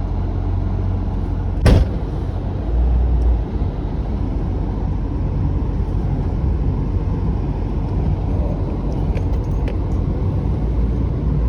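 Engine of a ranch vehicle running steadily with a low rumble, with a single sharp click about two seconds in.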